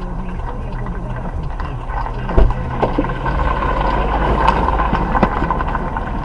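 Car on the road, its engine and road noise running steadily, with one sharp knock about two and a half seconds in and the noise growing louder through the second half.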